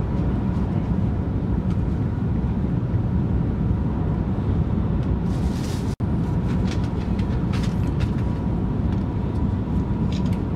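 Steady low rumble of an SRT high-speed train running at speed, heard inside the passenger carriage, with a faint steady whine. The sound breaks off for an instant about six seconds in.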